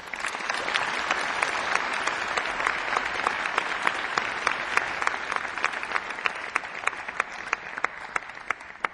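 Audience applauding, thinning out near the end so that single claps stand out.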